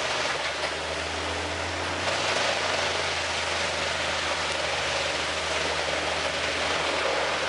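Large wood chipper running and grinding logs: a steady low engine hum under a dense, even hissing noise of wood being shredded.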